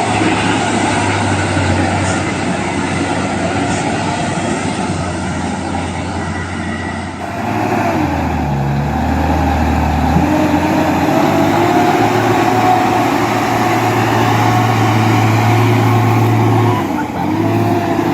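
A truck engine running steadily under load. The engine sound changes abruptly about seven seconds in, as if to a different truck, then holds a steady note.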